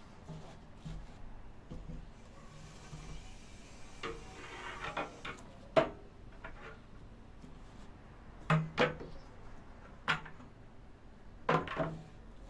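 Household objects being handled and set down: a short rustle about four seconds in, then several sharp knocks and clatters, the loudest about six seconds in and two close together past the eight-second mark.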